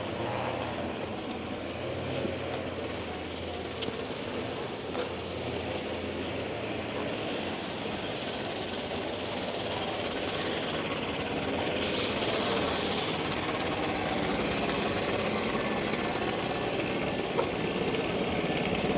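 Continuous rapid mechanical rattling in city street noise, getting somewhat louder a little past halfway.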